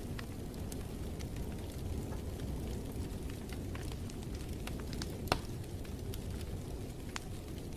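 Wood fire crackling in a fireplace: a steady low rumble with scattered small crackles and one loud pop about five seconds in.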